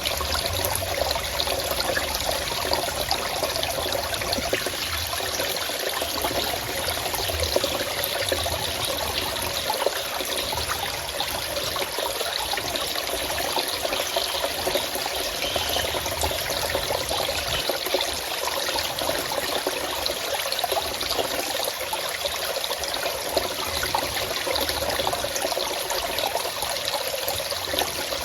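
Forest stream flowing and trickling in a steady babble of running water.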